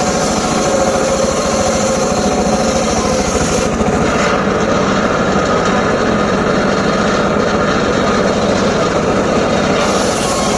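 Homemade circular sawmill rig running steadily, its drive and blade giving a loud continuous machine sound with a fast, even pulse. The high hiss thins out about four seconds in and comes back near the end.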